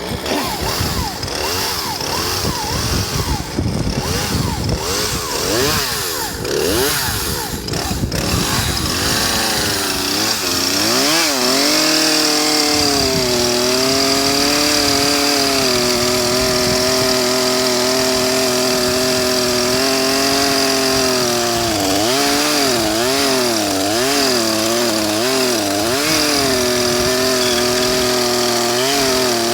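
Chainsaw engine running, its pitch surging up and down unevenly for the first ten seconds, then held at a steady high speed, then wavering again for a few seconds before settling; the owner calls the saw barely working.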